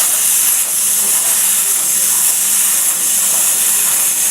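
CNC plasma torch cutting metal: a steady, loud hiss, strongest in the high pitches, with a faint low hum beneath it.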